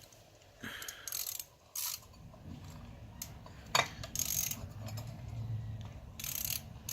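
Socket ratchet clicking and metal clinking while new clutch spring bolts are fitted on a motorcycle clutch, with one sharper click about four seconds in.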